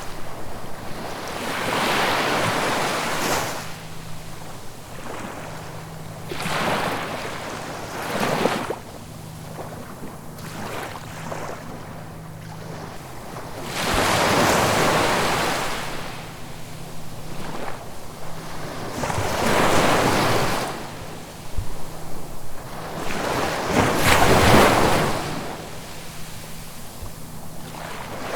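Ocean waves breaking and washing onto the shore, one swell of surf every few seconds, the largest breaks coming about halfway through and near the end.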